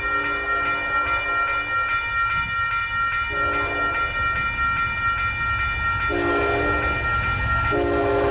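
Diesel freight locomotive horn sounding the grade-crossing signal of long, long, short, long blasts over the low rumble of the passing train. A steady high-pitched ringing tone runs underneath and stops near the end.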